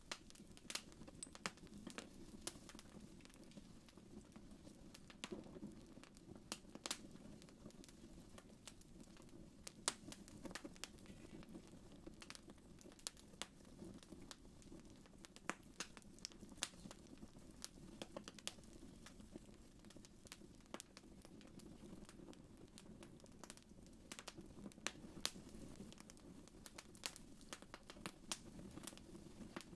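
Wood fire crackling in a fireplace: irregular sharp pops and snaps over a soft, low rumble of burning.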